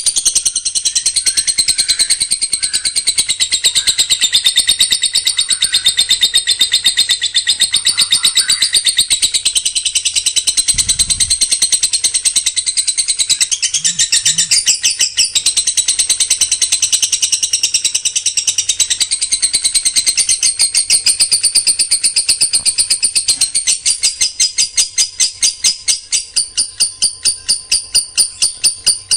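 A songbird singing a continuous, dense, rapid-fire song of fast repeated high-pitched notes, the tight 'tembakan rapat' bursts used to train contest birds. Over the last few seconds the song turns into a steady run of separate, evenly pulsed notes.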